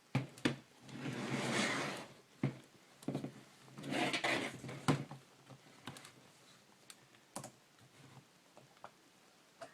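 A laptop's plastic case being handled: sharp plastic clicks and two sliding, scraping sounds about a second long each, as the battery is put back in and the laptop is closed up.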